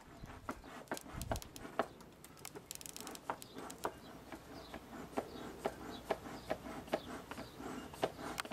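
Irregular clicks and knocks, about two or three a second, of a wooden beehive being handled as it is opened, with a brief flurry of sharper ticks about three seconds in. Faint bird chirps sound now and then.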